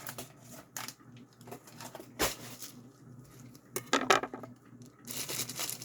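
Scattered light clicks and knocks of hard items being handled while a package is unpacked, with the sharpest knock about two seconds in and a small cluster of clicks near the end.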